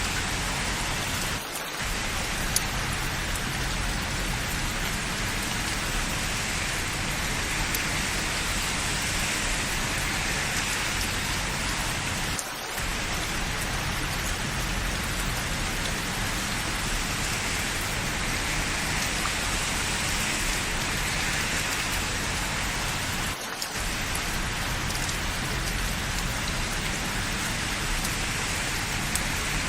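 Steady rain falling, an even hiss that drops away briefly three times, about eleven seconds apart.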